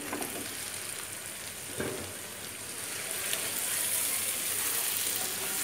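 Raw green mango pieces frying in hot mustard oil and spices, a steady sizzle that grows louder from about three seconds in as a wooden spoon stirs them. A single knock about two seconds in.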